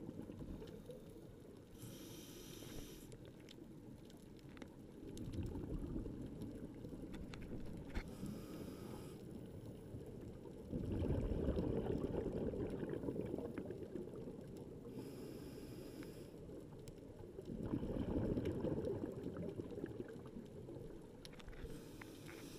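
Scuba diver breathing through a regulator underwater: a short hiss of the demand valve on each inhale, then a longer, louder rush of exhaust bubbles on each exhale, about one breath every six to seven seconds.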